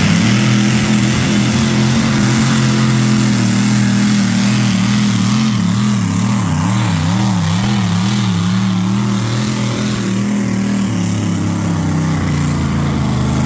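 Modified pulling tractor's engine running hard through a pull down the track. Its pitch wavers up and down for a few seconds midway, then holds steady again.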